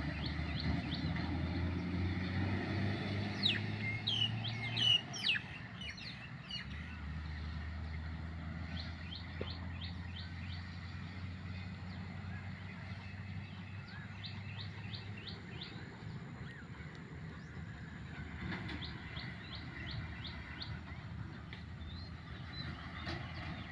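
Birds chirping in quick series of short high notes, busiest about four to five seconds in, over a low steady hum that fades in the second half.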